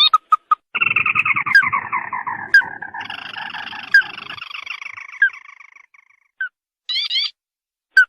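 Ruddy-breasted crake call played as a lure: a long, rapid trill that falls steadily in pitch and fades away, followed by a few short rising notes near the end.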